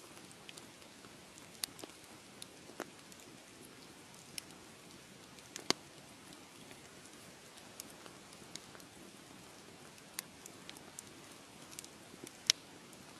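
Wood fire crackling: a soft steady hiss of flames with irregular sharp pops and snaps, two of them louder, about halfway through and near the end.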